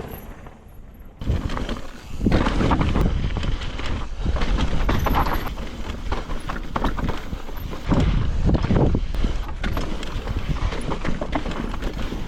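Mountain bike riding over a rough, rocky trail: tyres crunching on dirt and rock and the bike rattling with rapid, irregular knocks over bumps, under a heavy rumble. Quieter for the first second, then loud from about a second in.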